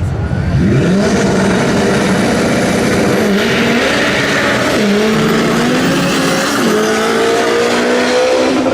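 Turbocharged Honda Civic drag car launching and accelerating hard at full throttle. The engine note climbs from about half a second in and falls back briefly at each upshift, about three, five and seven seconds in.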